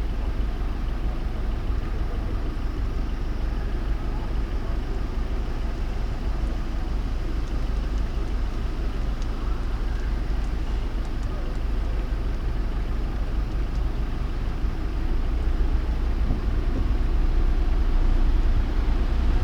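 Steady car driving noise: a low rumble of engine and tyres on the road, growing a little louder about three-quarters of the way through.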